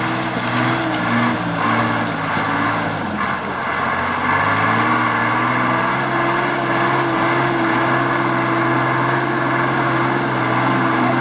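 A large vehicle engine running steadily under load; its pitch shifts about three seconds in, then holds level.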